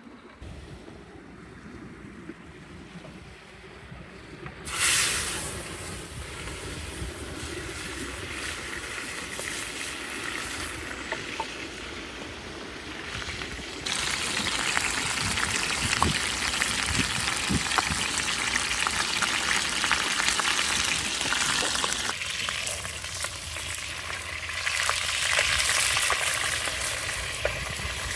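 Food sizzling and frying in a hot pan, starting with a sudden loud hiss about five seconds in as it hits the pan, then a steady sizzle.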